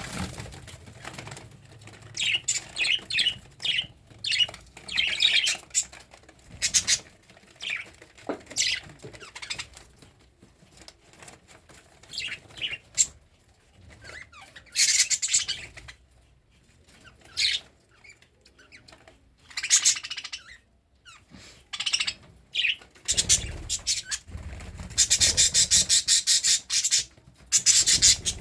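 Cockatiel singing: a string of short, high chirps and calls with pauses between them, and a longer run of rapid pulses near the end.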